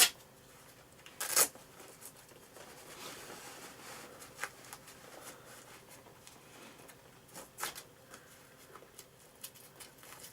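A leather motorcycle glove being pulled on and fastened: rustling of leather with a handful of short, sharp rasps, the longest about a second and a half in.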